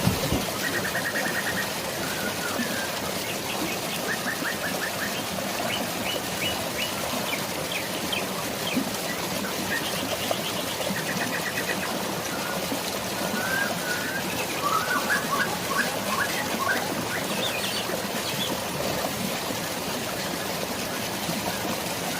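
Steady rush of flowing stream water, with small birds chirping in short rapid trills several times, busiest in the middle. A brief sharp click right at the start.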